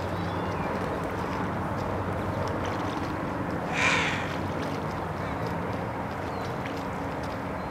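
One short, harsh bird call about four seconds in, over a steady low outdoor background hum.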